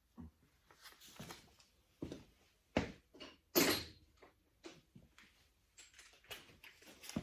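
Hand tools clinking, knocking and scraping on a Case 188D diesel engine block while the oil pump adapter is unbolted: scattered light clicks, a sharp knock near three seconds and a louder metallic scrape about half a second later.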